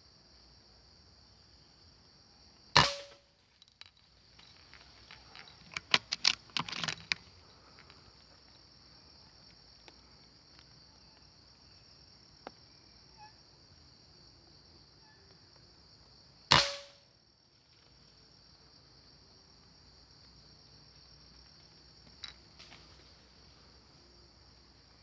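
Two air rifle shots about fourteen seconds apart, each a sharp crack with a short tail, with a run of smaller clicks and knocks between them. A steady high insect drone goes on underneath.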